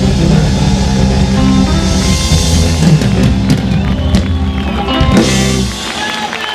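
Live rock band's closing flourish: drum fills and cymbal crashes over a held final chord, which stops abruptly near the end.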